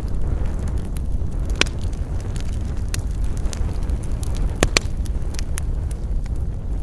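Wood campfire burning: sharp crackles and pops scattered over a steady low rumble, with two loud pops close together about two-thirds of the way through.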